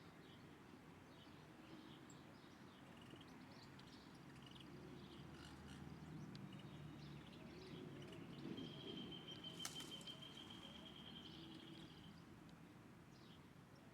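Faint bird chirps and calls, with one long, even high trill about two-thirds of the way through, over a low background rumble. A single sharp click near the middle of the trill.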